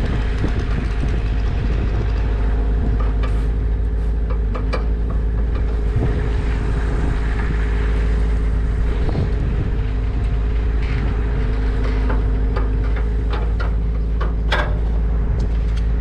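A large engine running steadily at an even speed, with scattered clicks and knocks over it.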